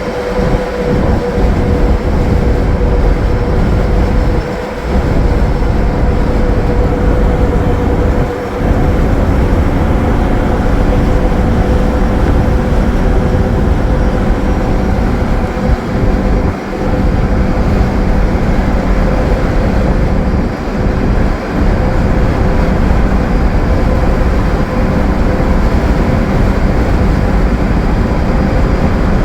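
Cabin noise of a 2015 Gillig Low Floor 40-foot transit bus cruising: the Cummins ISL9 diesel runs steadily under heavy road and wind rumble, with a steady whine, and the level dips briefly a few times.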